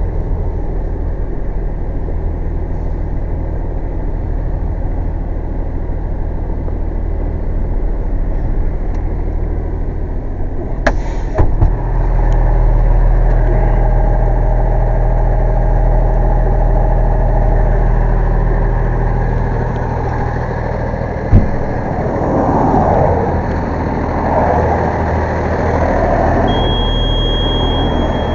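A motor vehicle's engine running steadily, getting louder about twelve seconds in. There are sharp knocks near eleven and twenty-one seconds, and a steady high-pitched tone comes in near the end.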